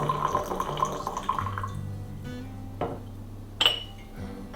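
Background pop music with a steady bass line, over kitchen sounds: water running, which stops a little under two seconds in, then two short clinks of dishes.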